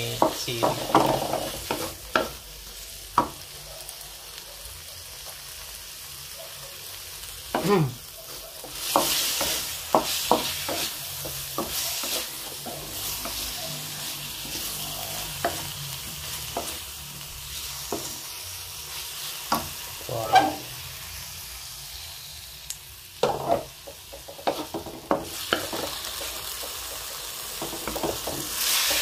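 Chicken livers sizzling as they fry in a wok, with a wooden spatula stirring them and scraping and clicking against the pan now and then.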